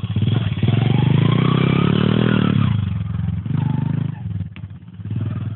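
Small mini motocross bike engine (minimoto 125) revving up, its pitch rising for about two seconds before the throttle closes, then two shorter throttle blips.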